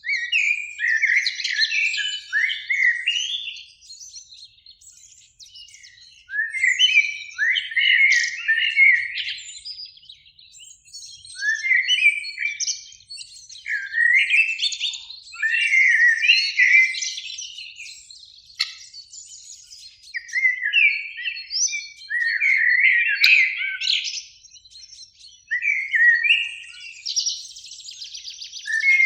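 Eurasian blackbird singing: about seven fluty, warbling phrases with short pauses between them, the phrases breaking into higher, scratchy twitters.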